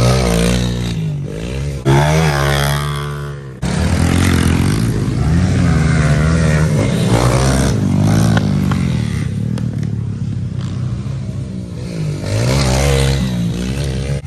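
Pit bike engines running and revving, their pitch rising and falling over and over. The sound cuts abruptly about two seconds in and again about a second and a half later.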